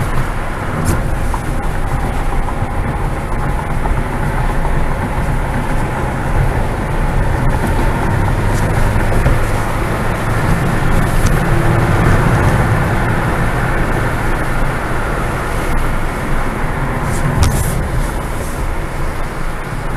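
Ford Fiesta ST's turbocharged engine and tyre and road noise heard from inside the cabin under hard track driving. The sound swells as the car slows into a corner and picks up speed again, with a couple of brief clicks.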